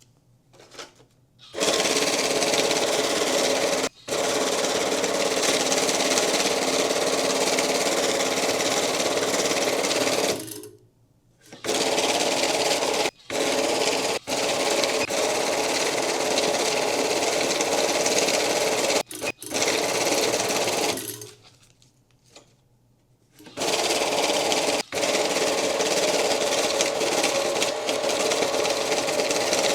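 Electric banknote counting machine running, feeding stacks of bills through in steady runs. It stops briefly several times and pauses for about a second or two roughly a third and two-thirds of the way in, between batches, before starting again.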